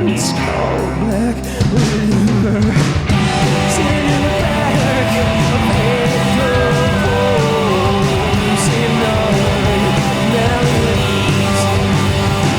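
A live rock band playing an instrumental passage: electric guitar, bass and drums, with a wavering guitar lead line in the middle.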